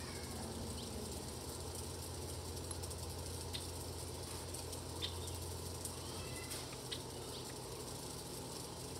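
Faint yard ambience: a few short, high bird chirps and ticks over a steady low hum that fades about six seconds in.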